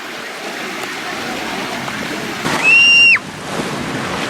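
Steady rush of a waterfall's falling water. About two and a half seconds in, a loud high shrill tone is held for about half a second and then cuts off.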